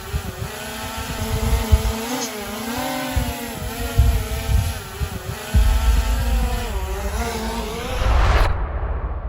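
Small quadcopter drone (DJI Mini 3 Pro) buzzing in flight, its pitch wavering up and down, with uneven low thumps of wind on the microphone. About eight seconds in a rush of noise comes up and the sound then drops away abruptly.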